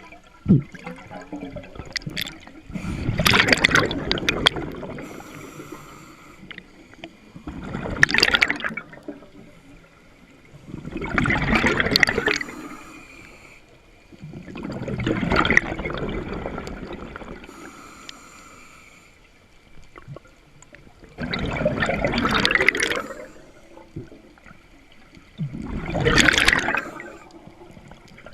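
Scuba diver's exhaled air bubbling out of the regulator underwater, in six bubbling bursts about four seconds apart, with quieter breathing between them.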